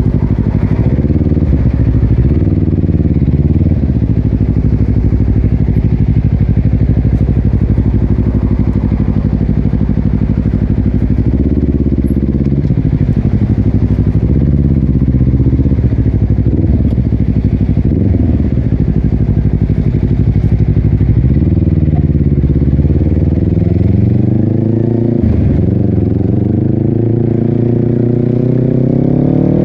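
Honda CBR250RR SP's parallel-twin engine through a Yoshimura exhaust, running at fairly steady revs under way, with a few brief dips and rises in pitch. In the last few seconds the revs climb steadily as the bike accelerates.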